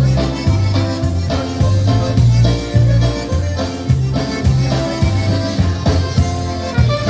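Live polka band playing an instrumental passage: bass alternating notes on a steady two-beat rhythm under drums and melody instruments.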